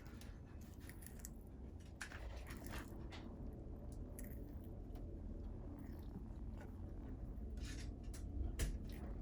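An animal feeding: irregular crunching bites and sharp clicks scattered through, the loudest near the end.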